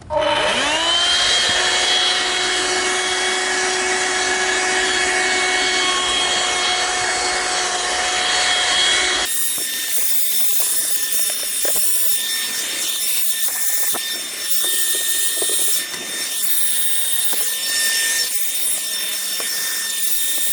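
Small handheld vacuum cleaner switched on, its motor spinning up to a steady whine, then running while its crevice nozzle rubs and scrapes over the car's interior surfaces. About nine seconds in the whine shifts to a slightly different pitch and keeps running.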